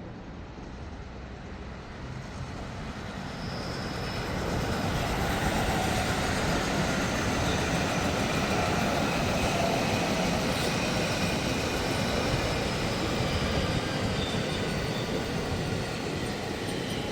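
JR West local electric train running on the track, growing louder over the first five seconds and then running steadily, with a faint whine above the rumble.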